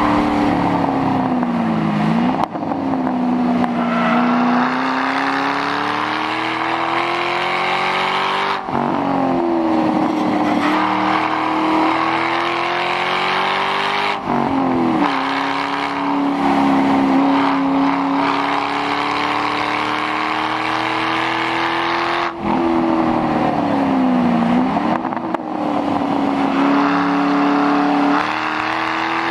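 2006 Mustang GT's 4.6-litre V8 running with the mufflers deleted, at speed on a race track. The engine note climbs slowly under throttle and drops sharply about five times at shifts or lifts for corners, then climbs again.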